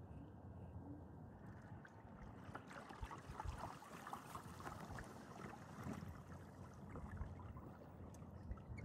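Faint water lapping and trickling against a kayak, with small clicks and knocks, a little fuller in the middle.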